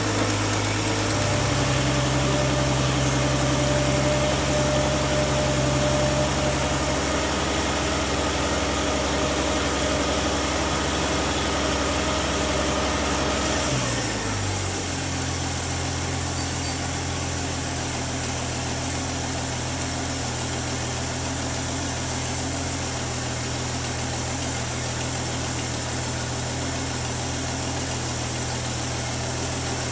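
A 1964 Chevy Nova's engine idling smoothly after a fresh tune-up with a new distributor cap and plug wires. Its idle speed rises about a second in, then drops to a lower, steady idle about halfway through while the carburetor is set by hand.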